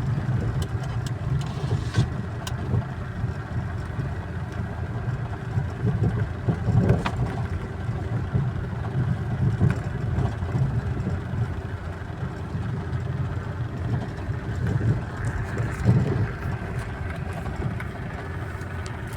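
Steady low rumble of a car's engine running, with a couple of brief knocks along the way.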